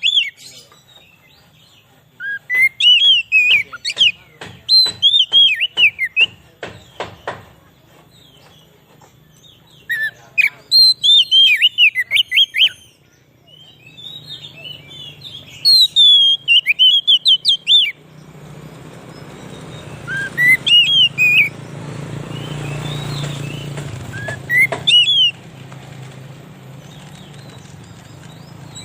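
Oriental magpie-robin (kacer) singing: bursts of fast, sweeping whistled phrases, with a run of sharp ticking notes early on. A low steady hum comes in under the song about two-thirds of the way through.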